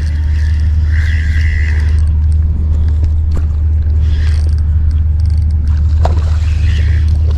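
Steady low rumble, with a brief higher tone about a second in.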